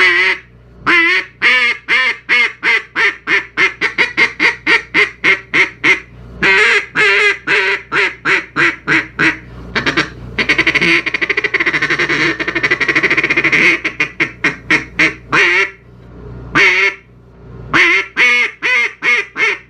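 Double-reed polycarbonate duck call blown through a sequence of calls. It starts with long quickening strings of short quacks, turns into a fast rolling chatter in the middle, then goes back to single quacks and short runs of quacks.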